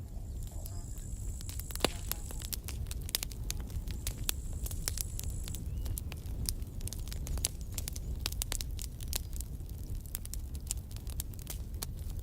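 Campfire burning: wood crackling with frequent sharp pops over a low steady rumble, one pop louder than the rest about two seconds in. A thin high whistle comes twice in the first half.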